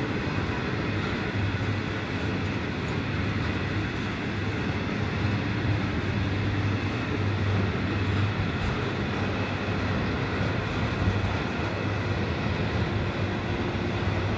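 Coal hopper wagons of a narrow-gauge freight train rolling past: steady wheel-on-rail rumble and running noise, with a steady low hum underneath.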